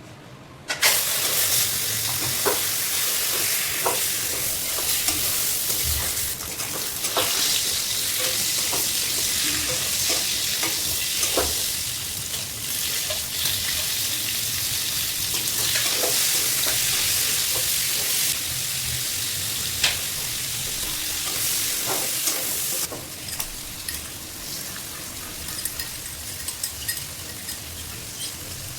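Pork sizzling in a pan without added oil, stirred now and then, with a utensil clicking against the pan. The sizzle starts about a second in and eases a little near the end.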